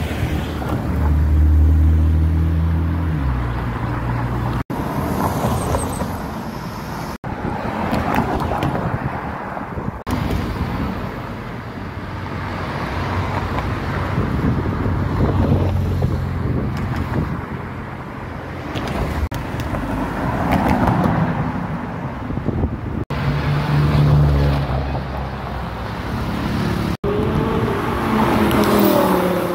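Sports car engines running and revving as the cars drive past in city traffic, over steady road noise. The sound breaks off abruptly several times between clips.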